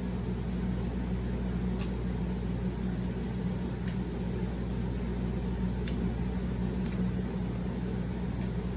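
A steady low mechanical hum, like a fan or air conditioner running, with a few faint soft clicks scattered through it.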